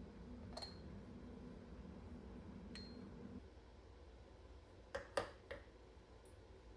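Two light clinks with a short ringing tail, as of glass or china being touched, followed by three quick knocks about five seconds in. A low steady hum underneath stops a little after three seconds.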